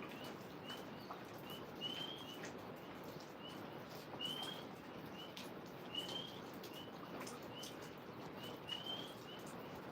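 A small songbird chirping faintly in short high notes, repeated about every half second, with a longer rising slurred note every two seconds or so, over a steady hiss of falling rain.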